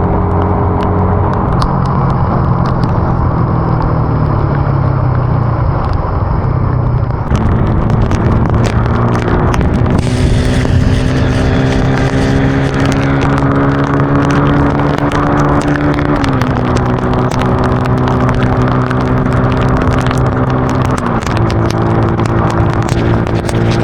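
Motorcycle engine running at road speed, with wind rushing over the microphone. The engine note steps up about a third of the way in, drops about two-thirds in and rises again near the end as the throttle or gear changes.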